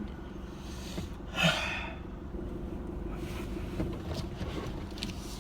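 Steady low rumble of a car on the move heard from inside the cabin, with one loud sharp breath from a passenger about a second and a half in.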